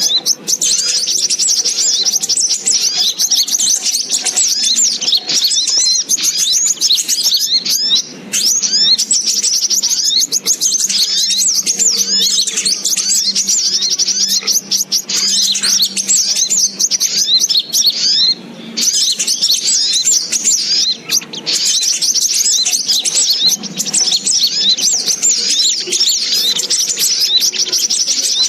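Little spiderhunter (sogok ontong) calls: a dense, rapid chattering of high chirps that runs on almost without pause, breaking off only briefly a couple of times. It is a bird-trapping lure call.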